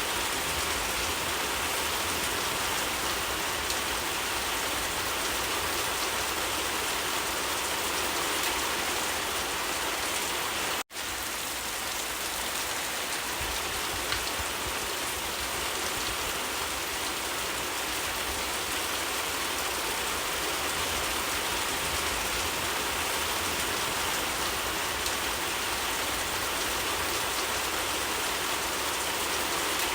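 Steady rain falling on surfaces, an even, dense hiss of drops. It breaks off for an instant about eleven seconds in, then carries on as before.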